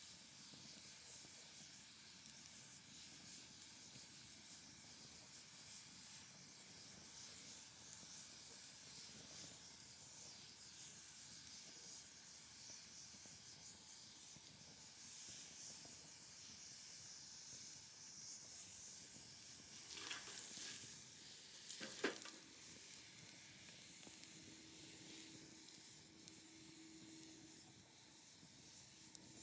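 Wood fire burning: a faint steady hiss with fine crackling, and two sharper pops of the burning wood a little over two-thirds of the way through, the second the louder.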